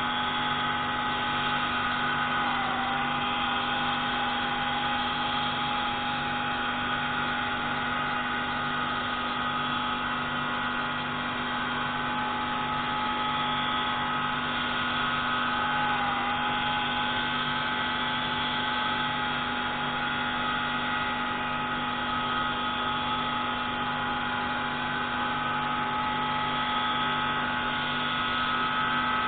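Pneumatic grinding tool running steadily with a high whine, grinding the intake valve of a MaK 601C marine engine. Its pitch dips briefly twice, about three seconds in and again around the middle, as the tool takes load.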